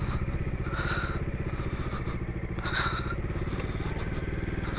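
Single-cylinder two-wheeler engine running steadily at low revs with an even pulse, with a couple of brief higher-pitched blips over it.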